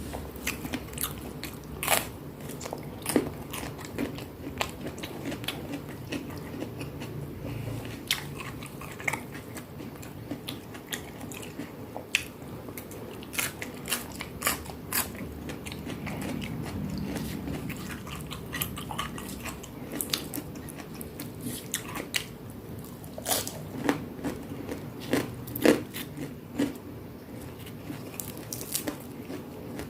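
A person biting and chewing crunchy food close to the microphone, with many sharp crunches at irregular intervals over soft mouth sounds.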